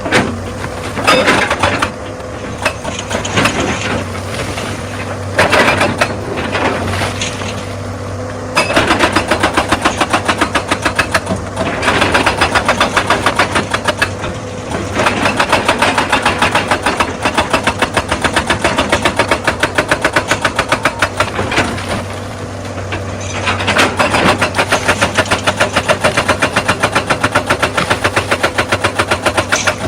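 Excavator's diesel engine running steadily under load, with a hydraulic rock breaker hammering on stone in a fast, even rhythm of sharp strikes. The first part has irregular knocks and scraping, and the rapid hammering starts about a third of the way in, with a brief pause about three-quarters through.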